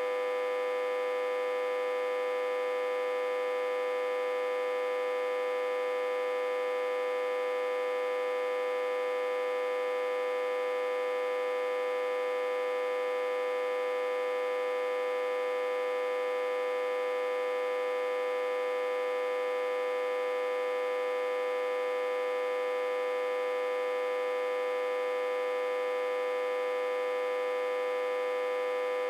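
Autotransformer humming, back-fed from a step-down transformer at about 60–80 V. It is one steady, unbroken drone of many stacked tones, fairly high-pitched with no deep bass.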